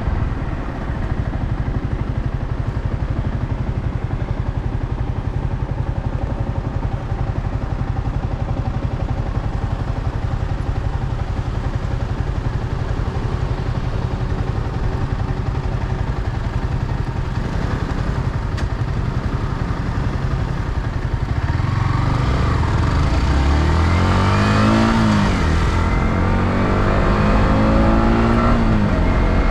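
Yamaha R15M's 155 cc single-cylinder engine running through its stock exhaust while riding, steady for most of the time. Near the end the revs rise and drop twice as it accelerates through the gears.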